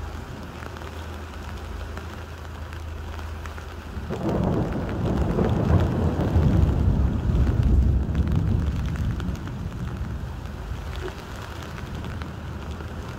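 Heavy rain pouring on a sailing catamaran's deck and cockpit windows in a thunderstorm. About four seconds in, a heavy low rumble swells up for several seconds, then eases back to the steady rain.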